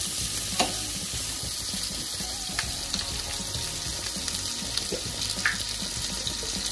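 Carrots, capsicum and spring onion sizzling in butter in a granite-coated grill pan, a steady frying hiss. A wooden spoon knocks against the pan about half a second in, with a few lighter clicks later.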